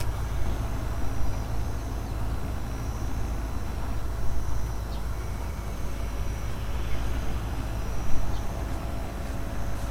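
Grass insects trilling, a high even-pitched chirp repeating in short phrases about once a second, over a steady low rumble.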